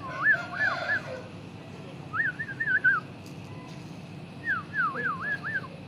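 Three short runs of three to five high, whistle-like notes, each note rising and falling in pitch, about two seconds apart, over a steady low hum.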